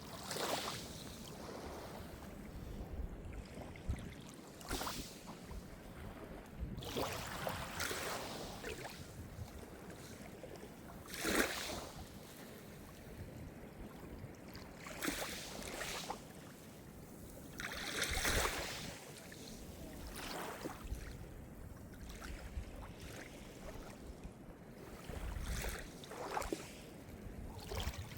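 Small Mediterranean waves breaking and washing up the shore, one swell of surf every few seconds over a steady background wash, with two stronger breaks partway through.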